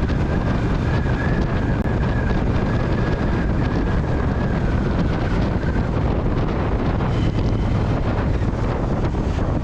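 Triumph Speed Twin parallel-twin motorcycle riding along at steady speed, its engine running under heavy wind noise on the microphone. A faint high whistle fades out about six seconds in.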